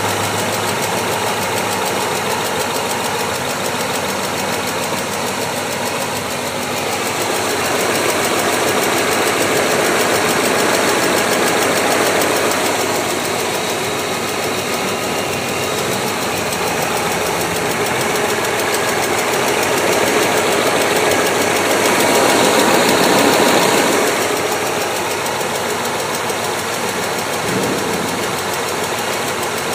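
BMW S62 4.9-litre V8 engine running with a fast, steady ticking, swelling louder twice, near a quarter and again about three quarters of the way through.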